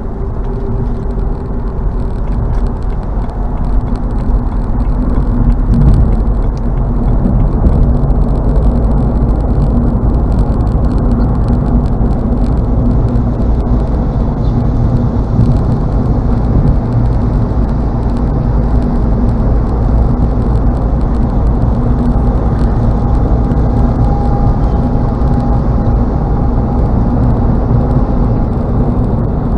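Steady road and engine noise of a car at highway speed, heard from inside the cabin: a dense low rumble with a faint hum, growing a little louder a few seconds in.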